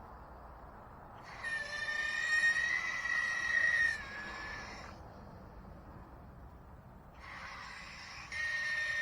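A high-pitched squeal or whine that something is making and does not usually make, heard twice: a long one of about four seconds, then a shorter one near the end, each dropping slightly in pitch as it stops.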